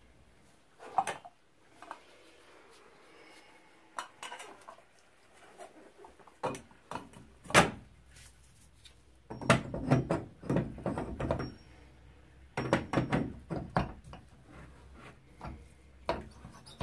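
Clinks, clicks and knocks of metal and plastic shower valve parts and tools being handled during reassembly of a Kohler valve, coming in scattered clusters, the sharpest about seven and a half seconds in.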